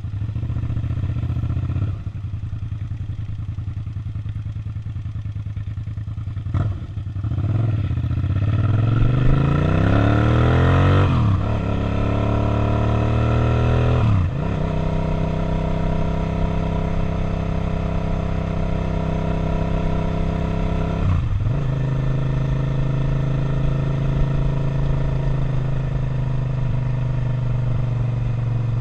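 Suzuki SV650's 645 cc 90-degree V-twin idling, then pulling away with rising revs. The pitch drops sharply at each of several upshifts, and the engine settles into a steady cruise.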